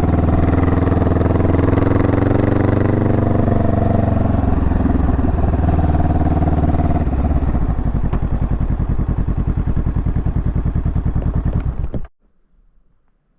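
Honda Rebel 500's parallel-twin engine slowing down, its pitch falling, then idling with an even pulsing beat. The sound cuts off suddenly near the end.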